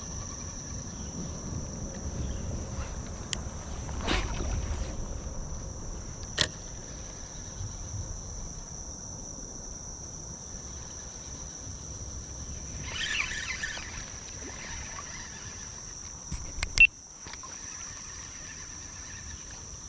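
Steady high-pitched trilling of insects over a low rumble of water and movement, with a few faint clicks and one sharp knock about seventeen seconds in.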